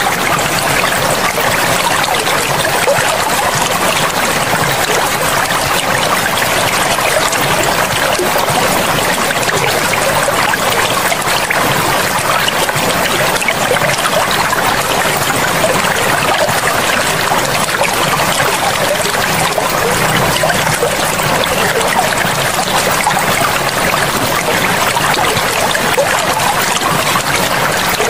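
River water running, a steady even rush that does not change.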